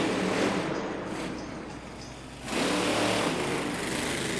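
Maximum Destruction monster truck's engine revving hard, dropping off for about a second midway, then opening up again suddenly.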